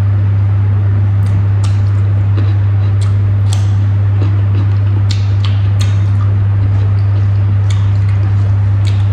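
Wet chewing and lip-smacking from someone eating rice and boiled pork by hand, heard as scattered short clicks, over a loud, steady low hum.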